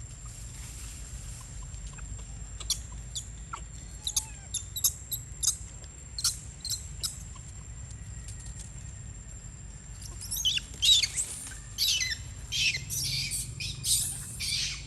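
Birds calling: scattered short, high chirps, then from about ten seconds in a denser, louder run of calls with quick falling notes.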